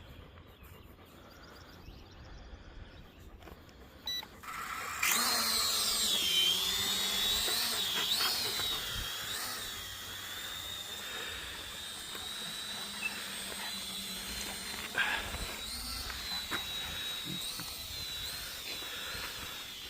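Small quadcopter drone's electric motors spin up about five seconds in and lift off. A high, steady whine follows, wavering in pitch at first as the drone climbs, then holding level as it flies.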